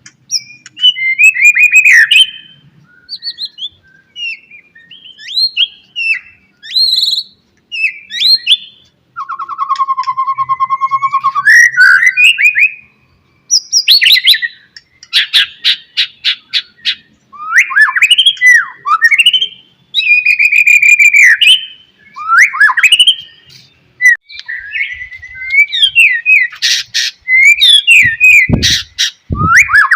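White-rumped shama (murai batu) singing a loud, varied song of whistled glides and rapid rattling phrases, with one long steady whistle partway through. Two brief low thuds come near the end.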